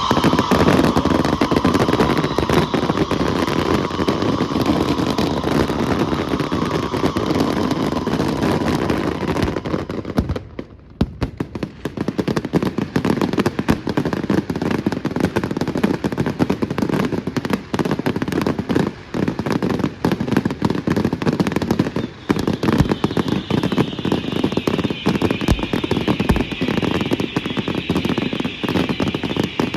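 Firecrackers and fireworks going off in a rapid, nearly continuous crackle of bangs, with a brief lull about ten seconds in. A high tone glides slowly downward through the last several seconds.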